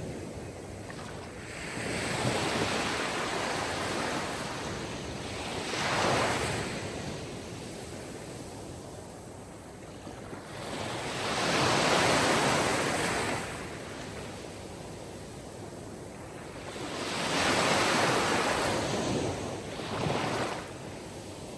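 Sea waves breaking on a shore: a steady wash of surf that swells and ebbs, with the biggest waves coming in about every four to six seconds.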